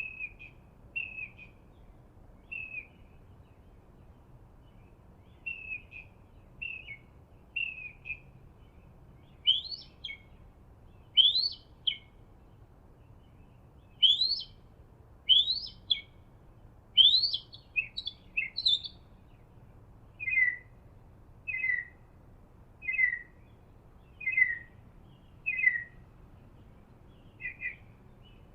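Birds calling: a string of short chirps about a second apart, then a run of sharp rising whistled notes through the middle, and a row of short falling notes near the end.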